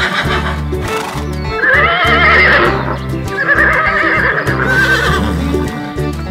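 Recorded horse whinny sound effect, dubbed in for a toy horse: two wavering neighs, the first about a second and a half in and the louder, the second following about three seconds in, over a background music track with a steady bass line.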